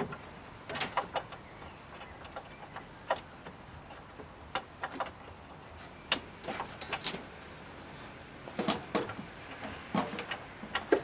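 Irregular clicks and knocks of small plastic and metal parts being worked loose and handled on the front end of a VW Polo 86 during disassembly.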